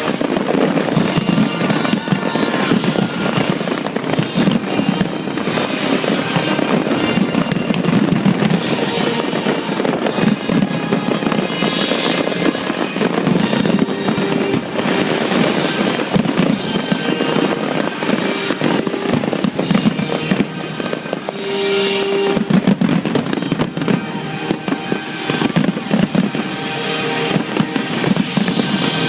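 A fireworks display: a dense run of bangs and crackling bursts, with music playing alongside, heavy crackle about ten, twelve and twenty-two seconds in.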